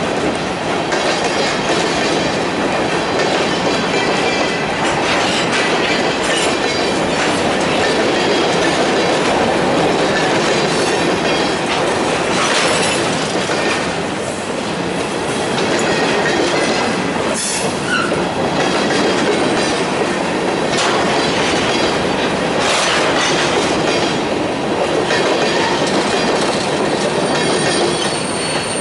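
Freight train of covered hopper cars rolling past close by: a steady rumble and rattle of steel wheels on rail. A few short, sharp sounds from the wheels stand out about halfway through and again later.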